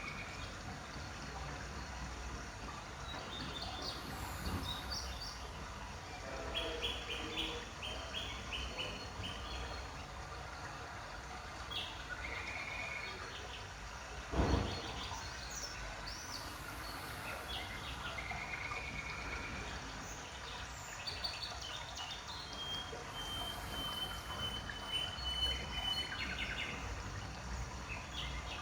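Birds chirping and calling in short bursts over a steady low background rumble, with one sharp thump about halfway through.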